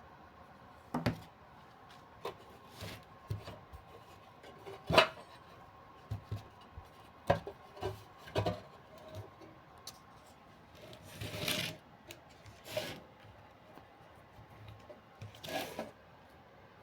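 Irregular light knocks, clicks and short rubbing or scraping sounds of small hard objects being handled, with quiet gaps between them; the loudest is a sharp knock about five seconds in.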